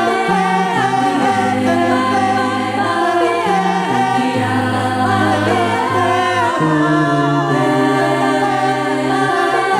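A cappella vocal group singing in close harmony: several voices hold chords over a sung bass line that steps to a new note every second or so, with a lead voice gliding above.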